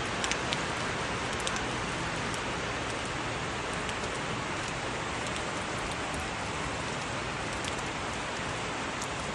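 Heavy rain falling steadily, a constant hiss with scattered sharp ticks of nearby drops.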